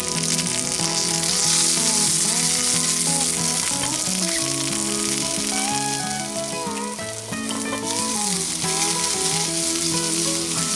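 Asparagus spears sizzling in hot beef tallow in a cast-iron skillet, a steady dense frying hiss, under instrumental background music.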